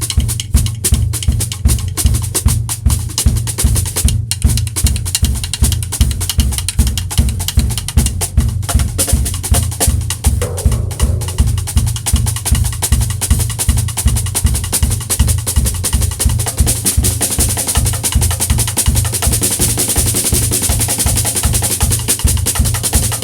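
Drum beat built on snare rim clicks, sharp woody cross-stick strikes, over a pulsing bass drum in a steady, fast groove. The pattern grows busier and brighter in the second half.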